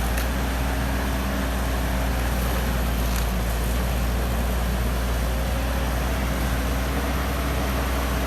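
Excavator's diesel engine running steadily, a constant low hum with no clear change in pitch.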